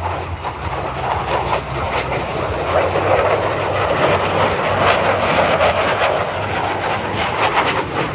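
Display aircraft engine noise as a plane flies past: a steady rushing sound that swells a little midway through.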